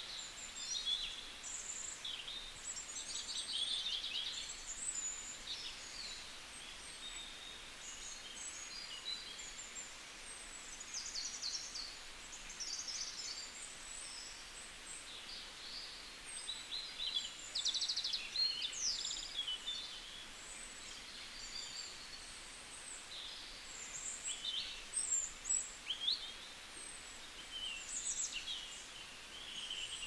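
Several small birds chirping and trilling, many short calls and quick trills overlapping, over a faint steady background hiss.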